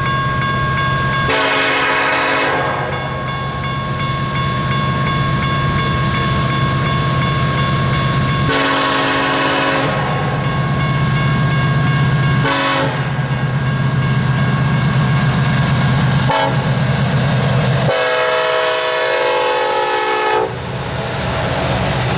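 Lead diesel locomotive of a BNSF coal train sounding its air horn in the grade-crossing pattern: long, long, short, long. The diesel engines drone steadily underneath as they work up the grade.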